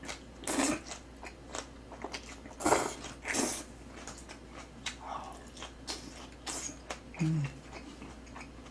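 Close-miked chewing of green onion kimchi: wet mouth sounds with irregular louder crunchy bites and smacks, a few of them standing out at intervals.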